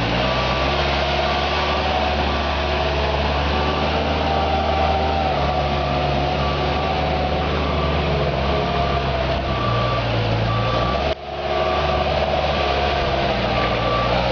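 Moffett truck-mounted forklift's engine running steadily as it drives sideways, with its warning alarm beeping about once a second. The sound drops out for a moment about eleven seconds in.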